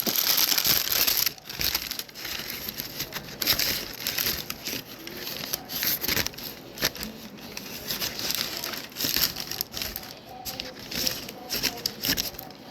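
Plastic cling film crinkling and crackling as it is peeled off a wrapped roll of beef, loudest in the first second, then lighter irregular crackles.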